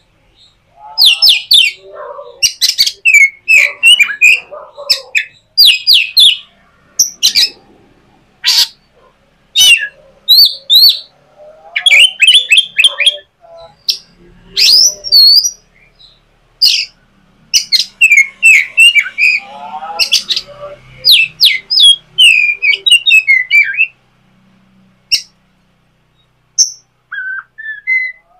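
A bird calling loudly in quick bursts of chirps and harsher squawks, with short pauses between runs.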